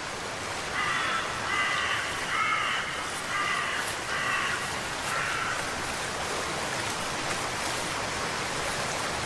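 A bird calling about six times in quick succession, then stopping, over a steady hiss of water.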